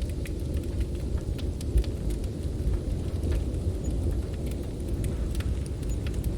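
Snowstorm wind roaring low and steady, with a wood fire crackling over it in scattered sharp pops.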